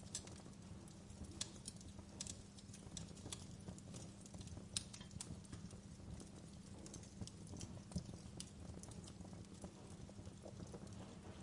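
Burning wood in a campfire crackling: irregular pops and snaps, a few sharper than the rest, over a low steady rumble.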